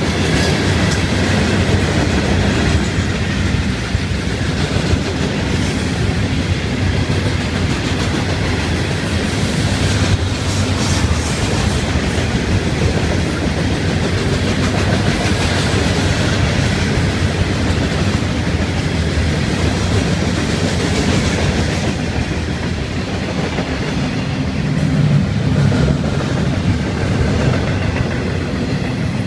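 Freight train cars rolling past close by: a steady rumble with the clickety-clack of steel wheels on the rails as loaded rock hoppers and then container-carrying well cars go by. A thin, high-pitched whine comes in near the end.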